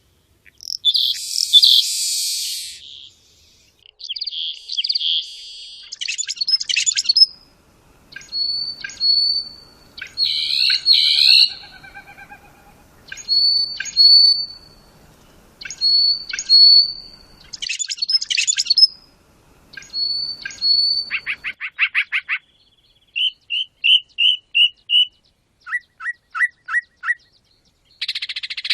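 Songs and calls of several different wild birds, one after another: a harsh buzzy call at the start, a short whistled phrase repeated several times, a rapid trill, and two series of evenly spaced short notes near the end.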